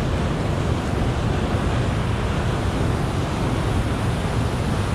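Rain-swollen mountain stream rushing past: a steady roar of fast water with no break.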